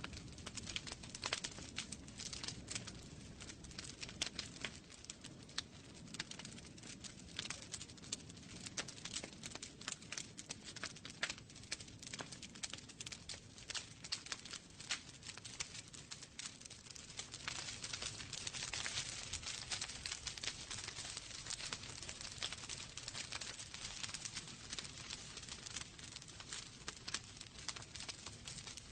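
Wood fire burning in a fireplace: logs crackling with frequent sharp pops over a steady low rumble of flame, and a stretch of denser hissing crackle in the middle.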